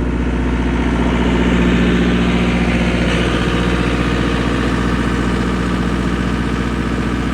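Ice cream truck's engine idling steadily.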